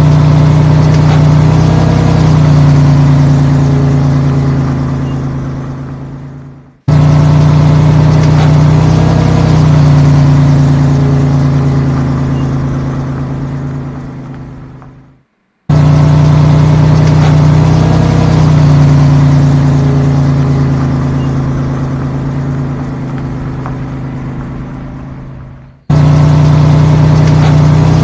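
A vehicle engine sound, steady and loud with a short rev a couple of seconds into each pass, played as a loop: it fades away and restarts abruptly three times with the same pattern each time.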